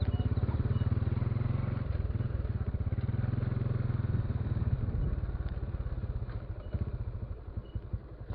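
Motorcycle engine running with a steady low exhaust pulse, which eases off and thins out in the last few seconds as the bike slows.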